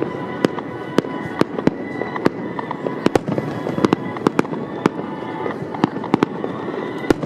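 Fireworks display: shells bursting in quick, irregular succession, many sharp bangs a second over a continuous rumble of further bursts, with music playing underneath.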